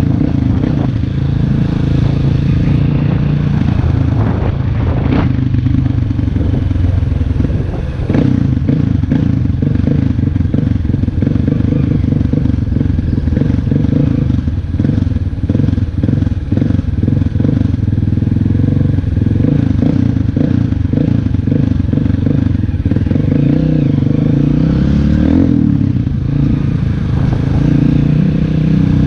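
Honda CRF230F's air-cooled single-cylinder four-stroke engine running under way, its note rising and falling with throttle and gear changes.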